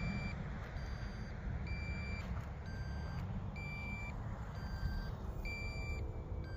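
RC transmitter low-battery alarm beeping: a short high beep about every two seconds, alternating with a fainter lower beep, over a steady low rumble. The alarm signals that the transmitter's batteries are running down.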